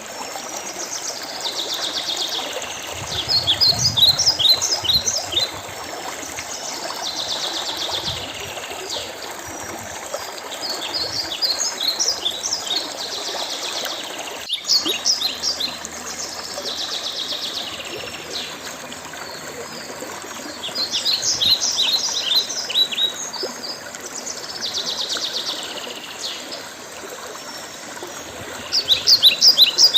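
A songbird repeats the same short song every five or six seconds: a buzzy trill, then a quick run of sharp falling notes. Under it runs a steady rush of flowing water.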